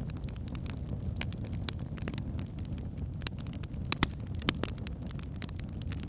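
Wood fire burning in a fireplace: a steady low rumble of the flames with irregular sharp crackles and pops from the logs, two louder pops about four and four and a half seconds in.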